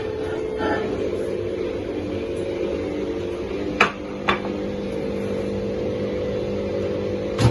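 Microwave oven running with a steady hum, broken by two sharp clicks a little past halfway and another just before the end.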